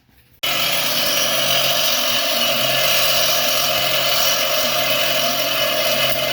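A power tool switches on abruptly about half a second in and runs loud and steady, with a constant low hum under a harsh whirring noise.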